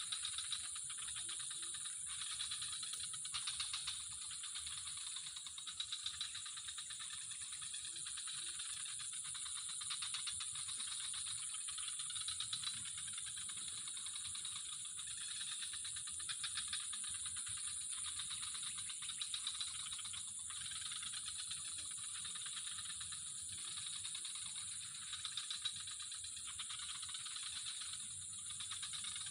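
Steady chorus of insects: a continuous high-pitched shrill with a fast pulsing trill beneath it.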